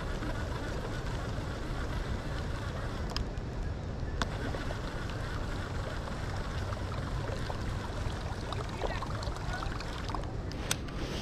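Steady noise of wind and water around a kayak on the river, with a few sharp clicks.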